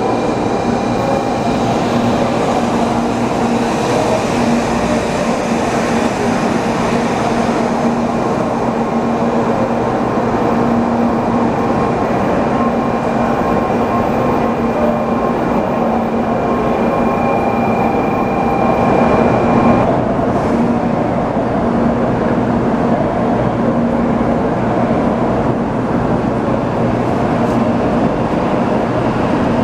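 Shinkansen bullet train moving past along a station platform: a steady rush of running noise with a low hum underneath, and a thin high whine that comes and goes.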